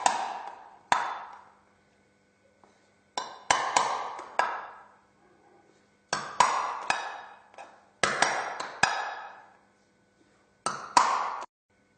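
Hammer tapping a nail through a small tin can to punch holes in it: sharp strikes in groups of two to four, each ringing out briefly.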